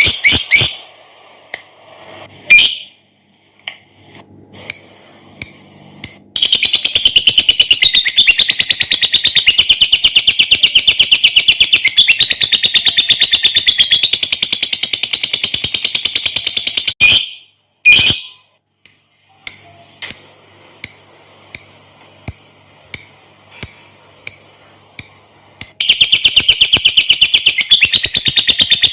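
Lovebird singing its long chattering trill (ngekek): rapid, shrill notes strung together for about ten seconds at a time, with spells of single sharp chirps between the long trills.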